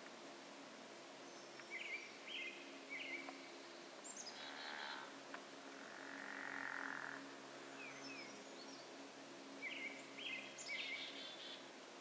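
A songbird sings two short phrases several seconds apart, each a few clear notes followed by a quick higher trill. A brief noisy call sounds in between, over a steady low hum.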